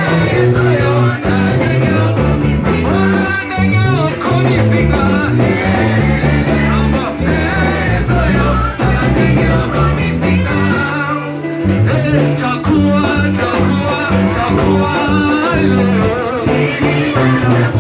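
Worship band music: singing over guitar and a bass line that steps from note to note.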